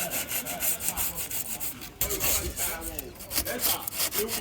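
Rapid back-and-forth rubbing strokes, like a hand tool working a surface, about five a second. They stop abruptly about two seconds in, then carry on slower and more irregular.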